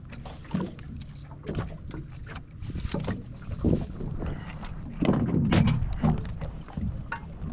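Irregular knocks and bumps on a small fishing boat as a fish is handled, over wind buffeting the microphone. The loudest run of bumps comes about five seconds in.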